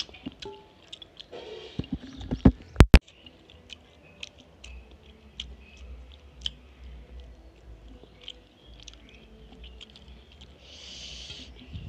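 Close-miked chewing and wet mouth clicks of a person eating rice and curry by hand, with a few sharp knocks between two and three seconds in and a short hissing rustle near the end.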